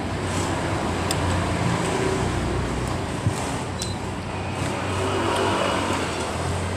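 Steady low hum and rumble of a car running, with a few faint clicks and a short tap about three seconds in.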